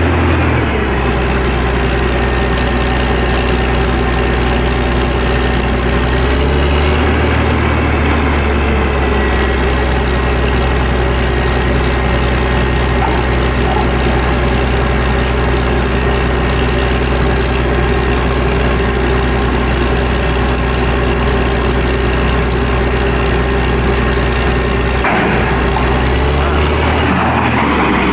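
Truck-mounted borewell drilling rig running steadily under load, its heavy diesel engine and air compressor droning loudly with a hiss of blown air and water. The engine note shifts briefly about seven seconds in and again near the end.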